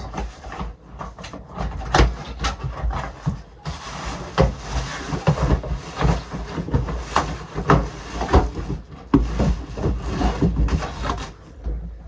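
Unpacking a boxed bread bin and canister set: packaging rustling and crinkling, with repeated knocks and clatter as the box and its pieces are handled. The rustling is densest in the middle of the stretch.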